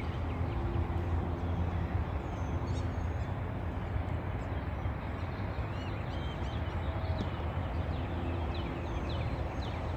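Steady low outdoor rumble with a few faint, short, high bird chirps scattered through it.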